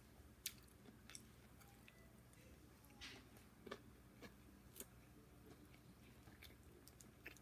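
A person chewing a mouthful of chicken and broccoli, faintly, with scattered sharp wet mouth clicks, the loudest about half a second in.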